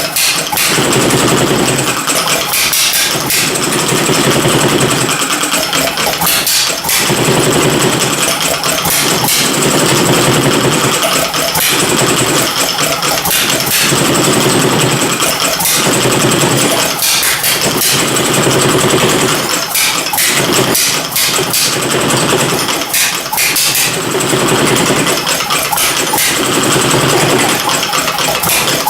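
Homemade inverted vertical hit-and-miss engine running: it fires a few times in a quick cluster, then coasts, about every two seconds, the firing-and-coasting rhythm of its governor holding speed.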